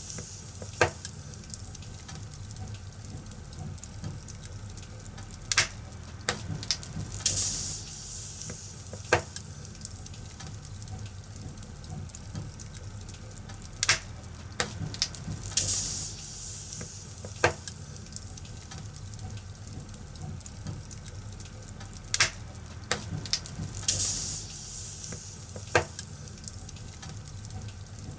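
Wood fire crackling: a steady low rumble and hiss, broken by sharp, irregular pops every second or few, with short swells of higher hissing.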